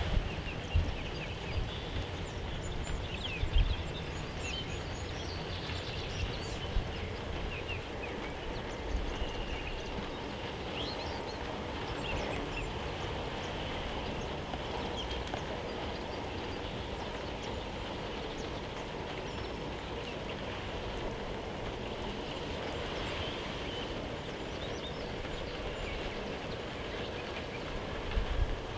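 Steady rain pattering, with faint bird chirps here and there and a few dull knocks in the first few seconds.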